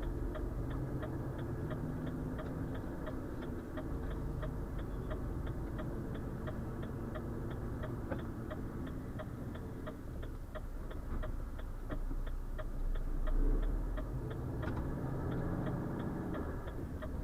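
Turn-signal indicator ticking steadily, about two and a half clicks a second, over the low rumble of the truck's diesel engine inside the cab.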